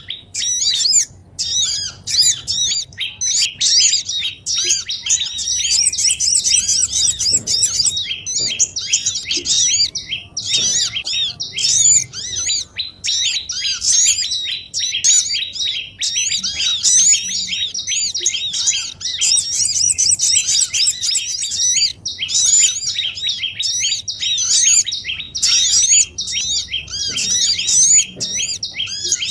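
Dense, unbroken chatter of many small birds, high chirps and twitters tumbling over one another several times a second. It is a bird-trapping lure track (suara pikat) of noisy small birds, played to draw wild small birds down.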